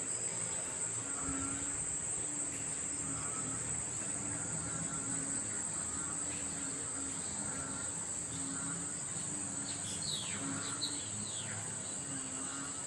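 Chorus of frogs and insects after rain: a steady high-pitched insect trill, with frogs calling in short repeated notes. A few quick falling chirps come about ten seconds in.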